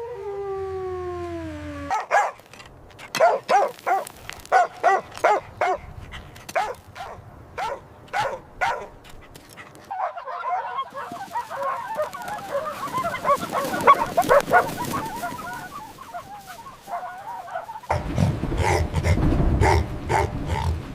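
Puppies yipping and barking. A falling howl opens, then comes a quick run of short, high yaps for about eight seconds. After that several puppies whine and yip over each other, with a low rumble under them in the last few seconds.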